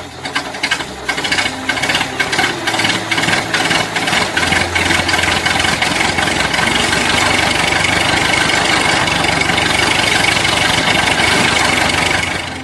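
Small DC motor of a homemade mini water pump running with a rattle. It is choppy and clicking for the first few seconds, then runs louder and steadier, and stops near the end.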